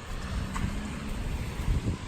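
A car running by on a wet street, a faint engine hum over the steady hiss, with wind buffeting the microphone in low thumps.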